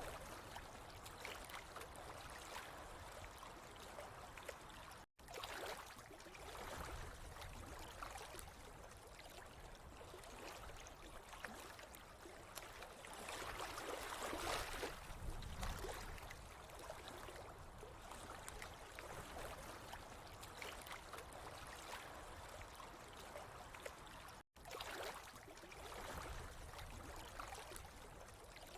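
Steady running, trickling water, swelling slightly around the middle, with two brief dropouts where the sound cuts out for an instant.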